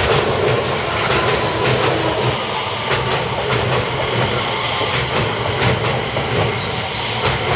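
A six-car JR West 225 series 5100-subseries electric train passing close by. Its wheels clack over rail joints at irregular intervals over a steady rumble and hiss.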